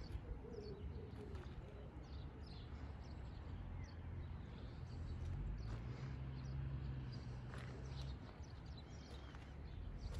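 Small birds chirping in short high calls over a low steady hum, which grows stronger from about five to eight seconds in.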